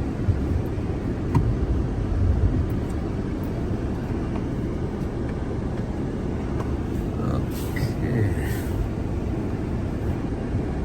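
Steady low rumble of a car's engine and tyres heard from inside the cabin as the car pulls out through deep snow. There is a short higher-pitched sound about eight seconds in.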